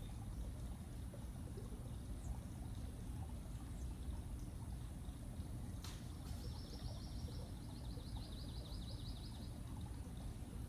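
Steady low outdoor rumble. About six seconds in there is a sharp click, then a songbird gives a high trill of rapid, evenly repeated notes for about three seconds.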